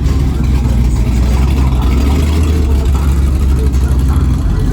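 Vehicle engine running close by, a steady deep rumble.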